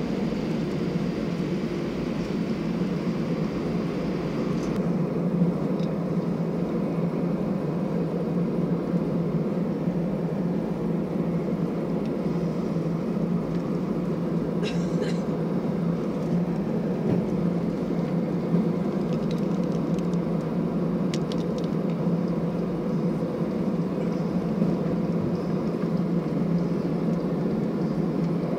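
Steady cabin noise of an Airbus A320 with CFM56 engines at low thrust while taxiing: an even low hum and rush of engines and air-conditioning. A higher hiss stops about five seconds in, and there are a few faint clicks midway.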